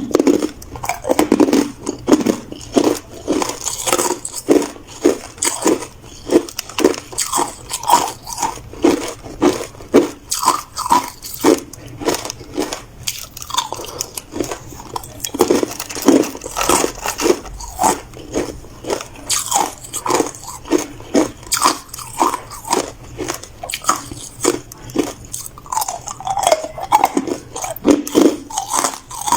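Hard ice being bitten and chewed close to the microphone: rapid, repeated loud crunches, several a second.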